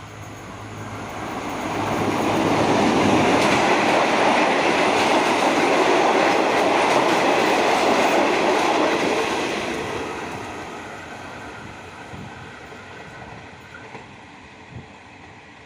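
A train passes by on the track: the rolling wheel noise swells, stays loud for about seven seconds, then fades away as it goes.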